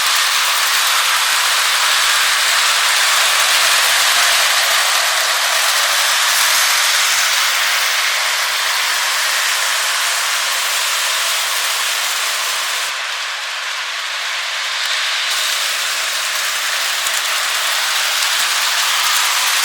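O scale model trains running around the layout track: a steady rolling hiss and clatter of wheels and motors, which dips briefly about two-thirds of the way through.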